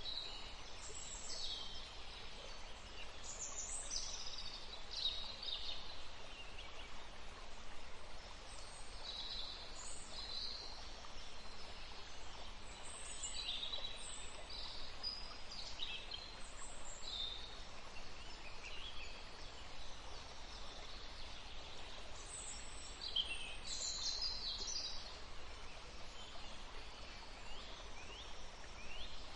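Several wild songbirds chirping and singing in short, overlapping high phrases over a faint steady background hiss.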